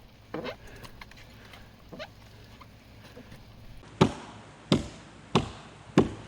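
Axe chopping into a downed log: four sharp strokes about two-thirds of a second apart, starting about four seconds in, after a few faint knocks.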